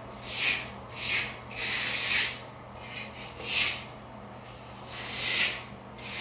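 Hand trowel scraping and smoothing dry-pack shower pan mortar, about five separate scraping strokes at uneven intervals.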